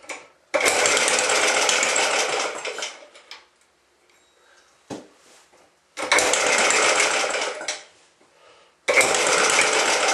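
Antique Clinton small gas engine being cranked cold, in three tries of about two to three seconds each: rapid, loud clattering that stops and dies away each time, the engine not staying running.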